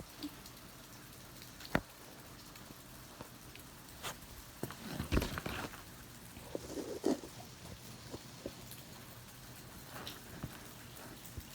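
Steady rain hiss with scattered clicks and knocks from a phone being handled and propped up, the loudest a cluster of bumps and rustling about five seconds in.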